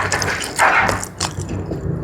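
Close-miked eating sounds of chewing jumbo squid: two short wet, noisy bites and a few sharp mouth clicks.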